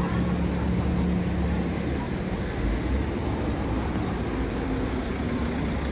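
Street traffic: a motor vehicle's engine running close by, a steady low rumble with a hum that fades after about two seconds.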